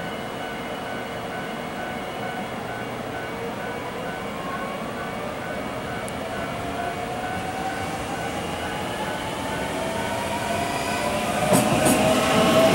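An express electric train comes alongside and passes close: a whine that rises in pitch, building in loudness, then, about 11.5 seconds in, a louder rumble with sharp clicks of wheels over rail joints.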